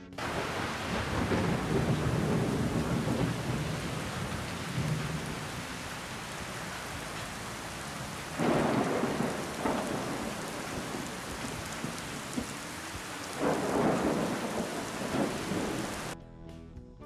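Steady heavy rain with thunder: a low rolling rumble in the first few seconds, and two louder thunder swells about eight and thirteen seconds in. The rain cuts off suddenly about a second before the end.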